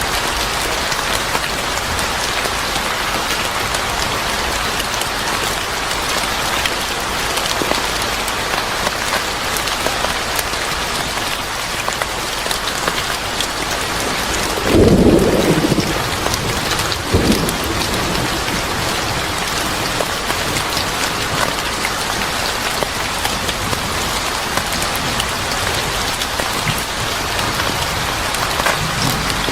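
Steady heavy rain falling, with a short low rumble of thunder about halfway through and a smaller one a couple of seconds later.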